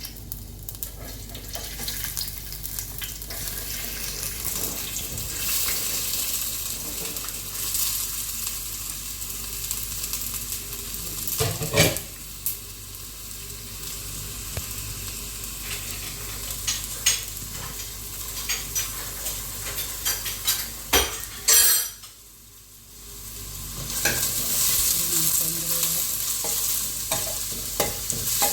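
Chopped onions sizzling in hot oil in a pan, stirred with a spoon that scrapes and clicks against the pan now and then. The sizzle drops away for about two seconds near the end, then comes back louder.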